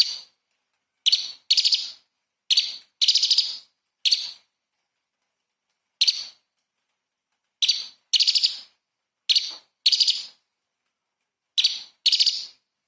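Orange-bellied leafbird singing: short, sharp, rapid song phrases, often in pairs, with silent gaps of about a second between groups.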